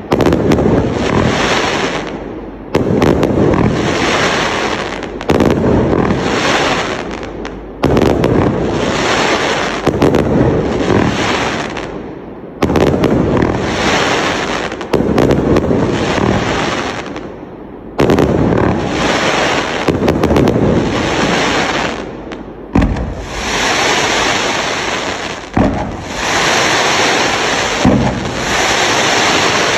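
Consumer display cake fireworks firing shot after shot. A sharp burst comes about every two and a half seconds, each fading out over a couple of seconds.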